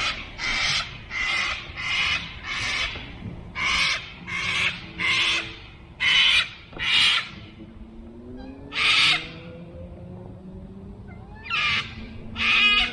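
A bird calling repeatedly with harsh, rasping squawks, about fourteen short calls mostly in quick runs of two to four, with gaps between the runs. A faint low hum rises in pitch midway.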